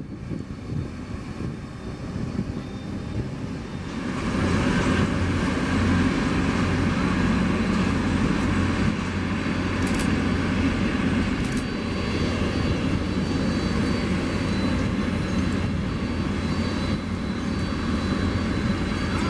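Airliner's engines running, a heavy rumble that grows louder about four seconds in and then holds steady, with a faint high whine.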